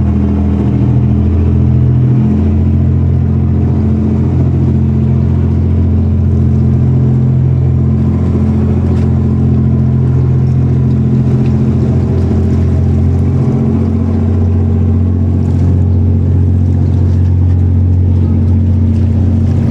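Ferry's engines running with a steady low hum that shifts slightly in pitch a couple of times.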